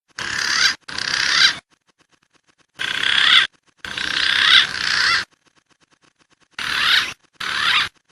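Recorded wild pigeon calls played as a bird lure. Six abrupt bursts of high, wavering whistle-like calls come in three pairs, each about half a second to a second and a half long, with sudden silence between them.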